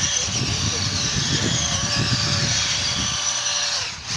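Brushless motor of an ECX Torment RC short course truck whining as it drives, the pitch gliding up and down with the throttle over a rattle of tyres and chassis. The whine fades out near the end.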